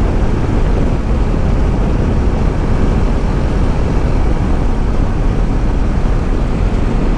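Steady rush of wind and road noise with engine rumble from a motorcycle being ridden at speed, with no breaks or changes.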